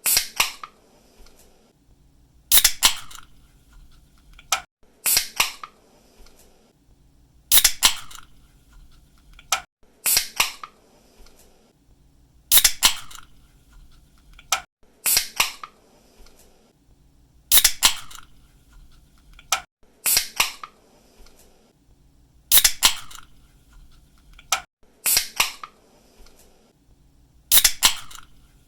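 Aluminium drink can with a pull tab being cracked open again and again, about every two and a half seconds. Each opening is a sharp click-and-snap from the tab, followed by a short fizz.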